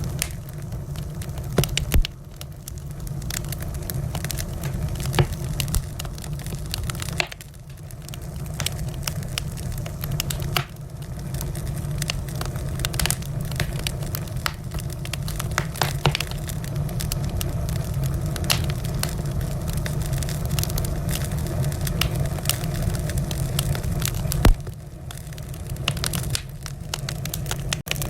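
Wood fire in a fireplace crackling, with irregular snaps and pops over a steady low rumble of flame. Louder pops come about two seconds in and again near the end.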